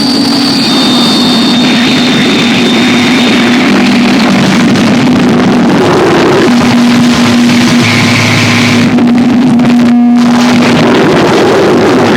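Harsh noise music: a loud, dense wall of distorted hiss over a steady low drone, with layers that switch abruptly and a high hiss that cuts out briefly about ten seconds in.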